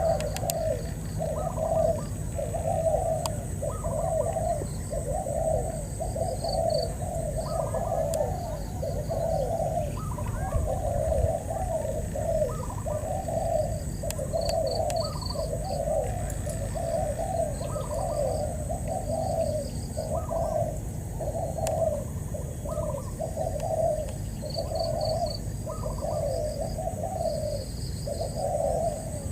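Spotted doves cooing over and over, about one coo a second, during a decoy-trapping session as a wild dove answers the decoy. Faint high chirps of small birds and a steady thin high whine sit behind them.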